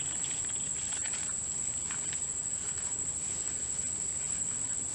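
Steady, high-pitched insect chorus with an unbroken trill, and a few faint rustles in the first two seconds.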